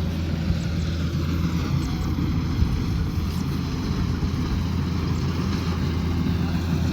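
Kubota combine harvester's diesel engine running steadily under load, a low even hum with the threshing machinery's noise over it.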